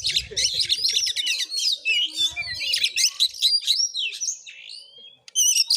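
Oriental magpie-robin (kacer) singing a fast, loud, continuous run of varied whistles and chirps. The song thins out after about four seconds, stops briefly, then a last sharp burst comes near the end.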